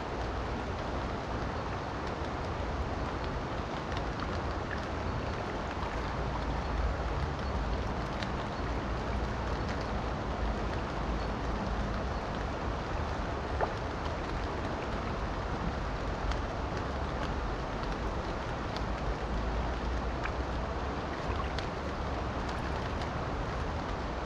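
Steady rush of river water mixed with falling rain, with scattered sharp ticks of individual raindrops.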